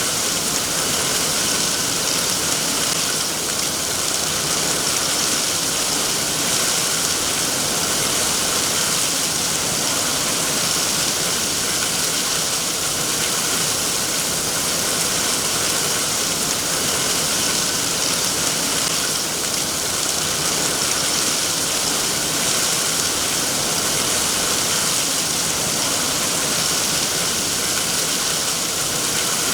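Steady heavy rain, an even, dense hiss that does not change.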